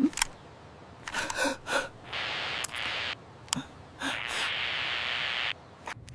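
Short breathy gasps, and two steady hisses of about a second each, about two and four seconds in.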